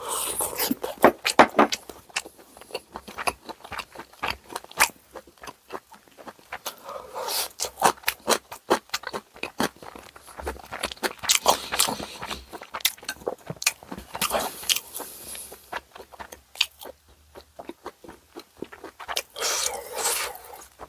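Close-up eating sounds of bossam: crisp crunching and wet chewing, with frequent sharp clicks and a few scrapes, in bursts across the whole stretch.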